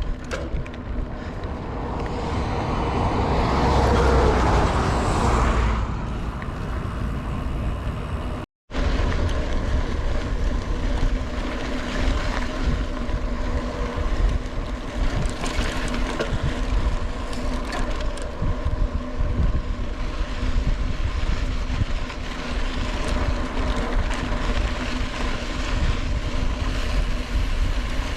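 Strong wind buffeting the microphone while riding a mountain bike, a rough steady rumble that swells louder a few seconds in. The sound cuts out for a split second about 8.5 seconds in, then the wind noise carries on.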